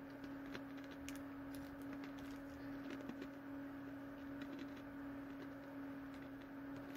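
Faint crunching of a person chewing crunchy cheddar Cheetos Pretzels: scattered small cracks, more of them in the first few seconds, over a steady hum.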